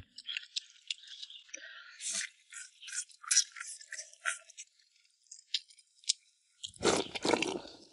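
Chewing and crunching food close to the microphone: scattered small crackles and clicks with short pauses between them, and a louder, fuller burst of eating noise about seven seconds in.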